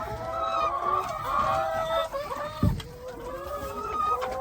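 A flock of hens clucking and squawking, many calls overlapping. A single low thump comes a little past halfway.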